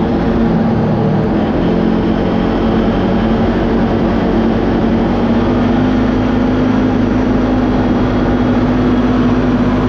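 Kawasaki Teryx KRX4 1000 side-by-side driving along the trail, its engine running at a fairly even pitch over a steady bed of tyre and drivetrain noise.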